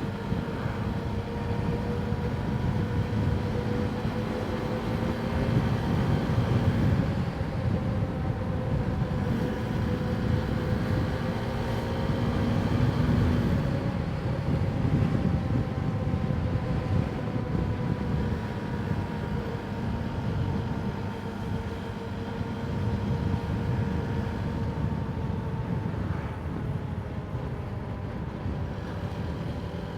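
Suzuki Gixxer 250's single-cylinder engine running at steady riding speed, with road and wind rumble, heard through a mic inside the rider's helmet. The engine note drifts slowly up and down as the speed changes.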